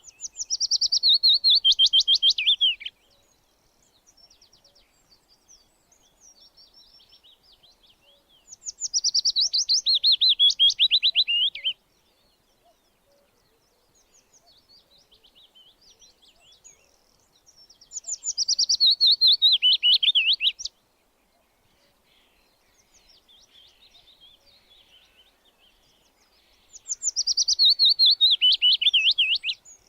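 A songbird singing the same phrase four times, about every nine seconds: each phrase is a fast run of notes sliding down in pitch and lasts a few seconds. Fainter high chirps come in between.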